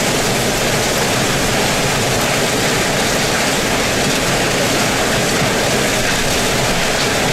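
Hurricane wind and rain: a loud, steady rushing noise.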